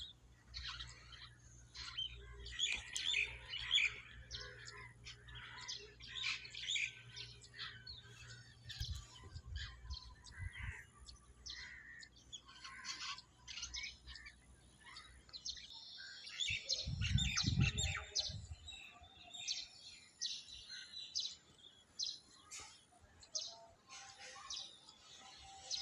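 Many birds chirping and calling at once, a dense chorus of short high calls. A low steady hum underneath stops about two-thirds of the way through, and just after it a low rumble lasting a second or two is the loudest sound.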